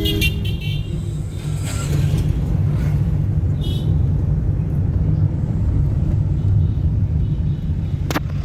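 Steady low rumble of a vehicle on the move, engine and road noise, with a single sharp click near the end.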